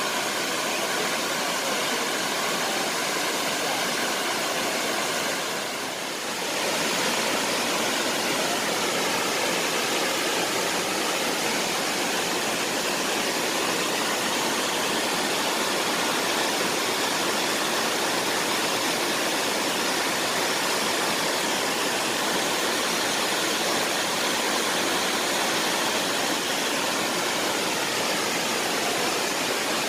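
Shifen Waterfall's falling water: a steady, even rush of white water, dipping briefly about six seconds in.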